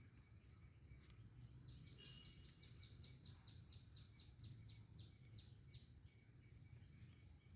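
A bird calling faintly: a quick run of about seventeen short high notes, each dropping in pitch, lasting about four seconds, over a low steady rumble.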